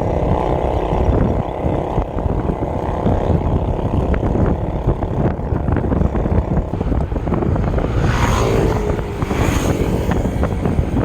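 Wind rushing over the microphone of a camera riding on a moving bike, with road rumble and small rattles, and a brief hiss about eight seconds in.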